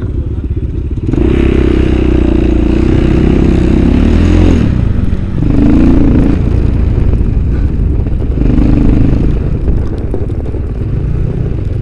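Motorcycle engine under throttle, pulling hard for about three and a half seconds, then easing off and surging again in two shorter bursts.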